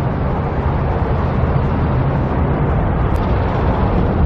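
A motor vehicle's engine running nearby, a steady low rumble that swells slightly through the middle and eases off near the end.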